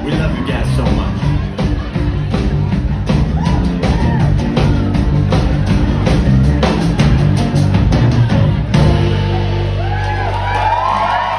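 Live rock band playing, with drums and sustained bass and guitar. The drumming stops about nine seconds in and a last chord rings out while the crowd cheers and whoops.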